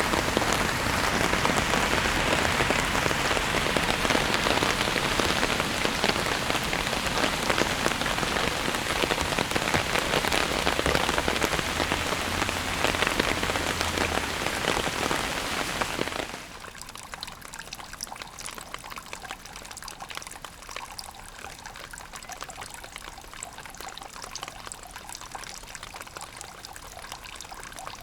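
Heavy rain falling steadily in a dense patter of drops; about 16 seconds in it cuts down suddenly to a much quieter, sparser spatter of individual drops.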